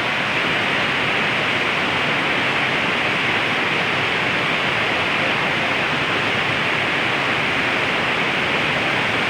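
Rain falling in a steady, even hiss that holds at the same level throughout.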